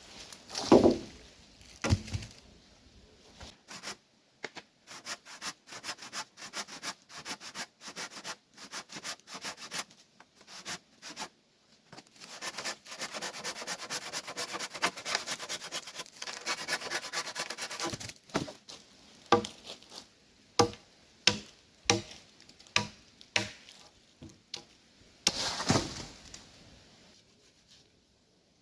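Wood being cut by hand with a blade: a couple of hard chops, a run of quick strokes, a stretch of steady sawing or scraping in the middle, then single chops about every half second to second.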